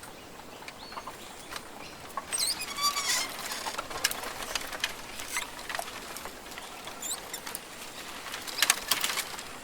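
Rainforest ambience made of scattered sharp clicks and patters, with a short, high, warbling bird call about two and a half seconds in and a dense cluster of clicks near the end.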